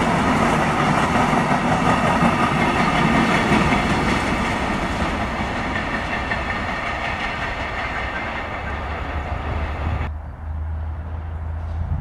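Container wagons of a freight train rolling past on the rails with a clickety-clack, fading as the tail of the train draws away. About ten seconds in, the train sound cuts off suddenly, leaving a low steady hum.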